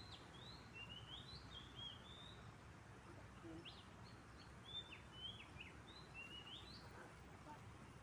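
Faint birdsong: a run of short, high whistled chirps, most of them rising, over a low steady background noise.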